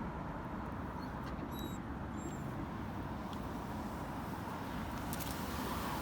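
Steady outdoor background noise with a low rumble, and a few faint high chirps about a second and a half in.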